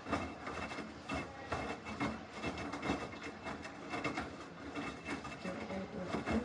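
Samsung washing machine starting its wash motion: the wet load being turned in the tub, a steady run of irregular rubbing and knocking that starts suddenly.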